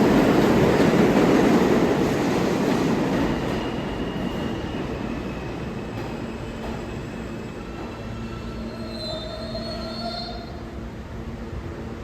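New York City subway train running along the BMT Broadway Line, loud at first and fading over the first few seconds as it moves away. Brief high-pitched wheel squeals follow, a few of them near the end.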